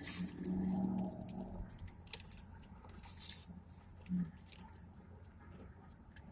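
A person chewing and biting into a burger close to the microphone, with short wet, crackly mouth sounds. A low closed-mouth hum runs for about a second and a half near the start.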